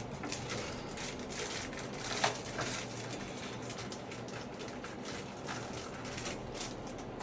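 Scattered small clicks and taps of parts being handled while the vacuum breaker is worked loose from a Sloan flush valve, with one sharper click about two seconds in.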